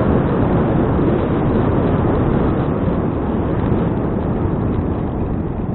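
Wind buffeting an action camera's microphone while riding a bicycle: a steady, loud, deep rumble that eases slightly toward the end.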